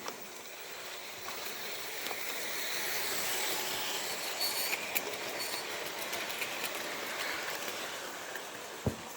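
Märklin HO model train running on its track, the rolling noise growing louder and then easing off as it passes, with scattered clicks of the wheels over the track. A sharp knock sounds near the end.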